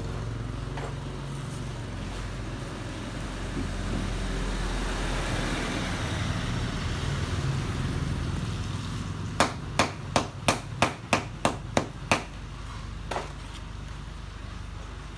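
A hammer tapping a freshly glued rubber patch onto a motorbike inner tube to bond it: a run of about nine quick sharp strikes, roughly three a second, then one lighter knock. Steady traffic rumble underneath.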